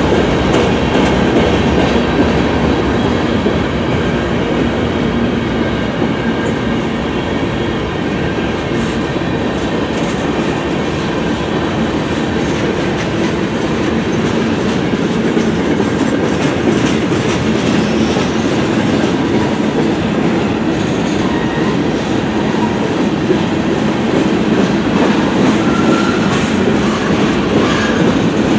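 Freight cars of a manifest train rolling past at close range: a steady rumble of steel wheels on rail with the clickety-clack of the wheel trucks over rail joints. A faint wheel squeal comes in near the end.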